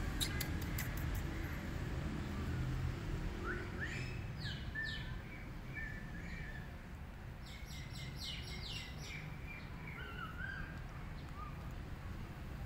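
Small birds chirping: short, high calls in two clusters, about four seconds in and again from about seven and a half to nine seconds in, over a steady low rumble.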